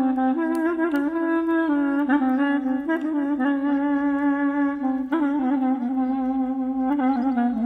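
Solo clarinet playing a slow melody of held, wavering notes that change every half second to a second.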